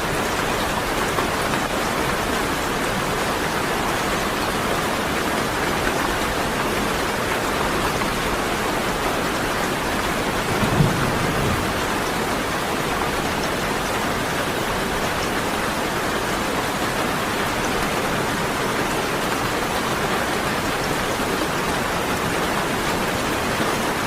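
Steady rain pouring down, with a brief low rumble of thunder about ten seconds in.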